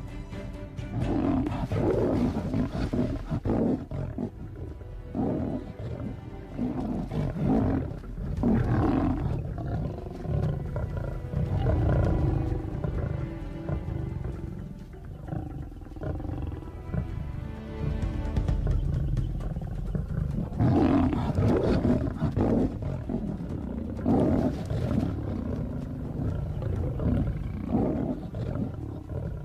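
Lions giving repeated harsh vocal outbursts, one after another at irregular intervals, over background film music.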